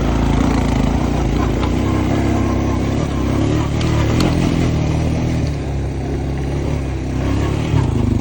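Honda Foreman ES ATV's single-cylinder four-stroke engine running under throttle while the quad is ridden, loud and steady, easing off a little in the second half.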